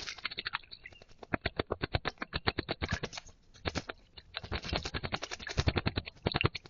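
A small bird bathing in a shallow bowl of water, flicking its wings and body to splash in quick runs of about eight splashes a second, with a short lull about four seconds in.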